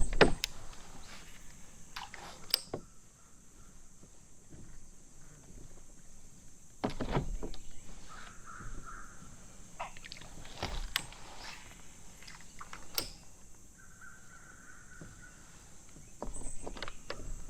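Crows cawing in two short runs of repeated calls, one about halfway through and one near the end. Scattered sharp knocks come in between.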